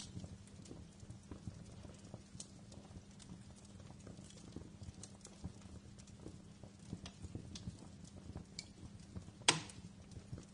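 Wood fire crackling in a fireplace: irregular small snaps and pops, with one louder pop near the end, over a faint steady low hum.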